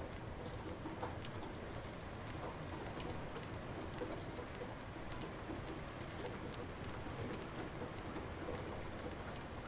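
Light rain falling steadily, with individual drops ticking here and there against the even hiss.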